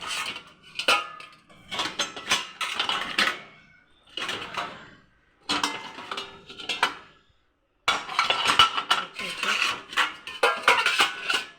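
Pots and vessels clinking and clattering against each other and the dishwasher rack as they are set into place, in several bursts of knocks separated by short pauses.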